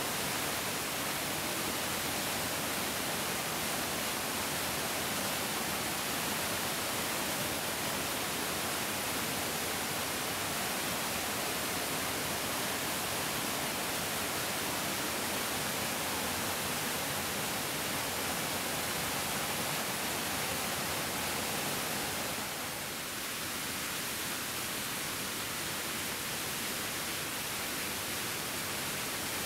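Mountain stream rushing: a steady, hissing wash of flowing water, dipping slightly about three quarters of the way through.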